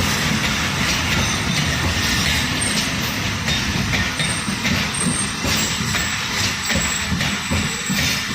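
Passenger train running along the track: a steady, loud rumble of wheels with repeated clacks over the rail joints.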